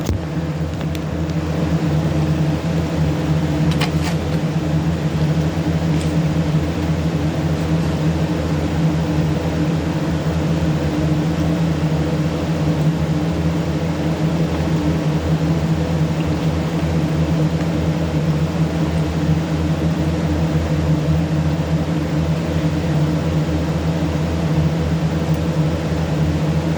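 Steady low mechanical hum, even and unbroken, with a couple of faint clicks.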